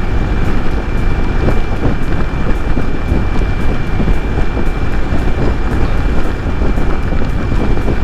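Wind rushing and buffeting over a helmet chin-mounted camera at highway speed, over the Yamaha R15 V3's 155 cc single-cylinder engine running steadily, with a thin steady high whine throughout.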